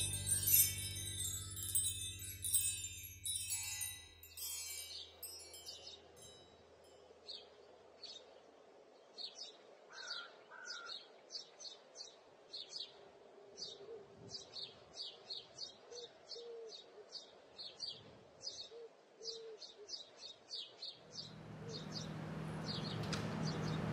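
Soft music notes die away over the first few seconds. Then small birds chirp in quick, high, irregular notes against quiet background. A steady low background noise rises near the end.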